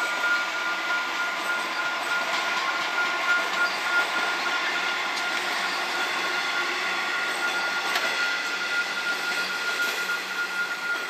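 Comeng electric suburban train passing close by, a steady rush of wheels on rail. A steady high-pitched tone sounds throughout.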